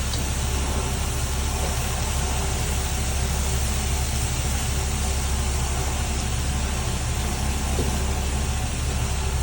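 Steady kitchen background noise while the pasta cooks: a constant low machine hum with an even hiss over it and no distinct events.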